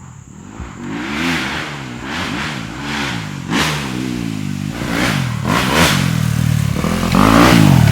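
Dirt bike engine revving up and falling back again and again, the pitch rising and dropping about once a second, getting louder toward the end as the bike draws near.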